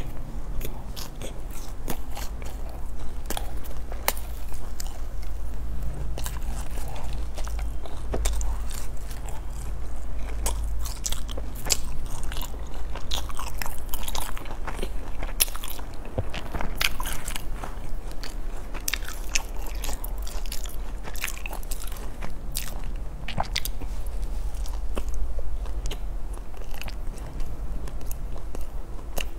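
Close-miked chewing and biting of crusty bread buns: a continuous string of small clicks and crunches, over a steady low hum.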